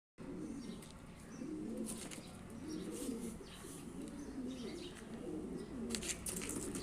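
Pigeons cooing softly and repeatedly, low rolling coos one after another, with a few faint chirps.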